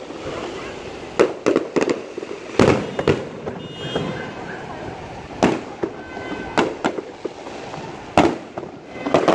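Aerial fireworks bursting: a string of sharp bangs with echoing tails at irregular intervals, the loudest about two and a half seconds in.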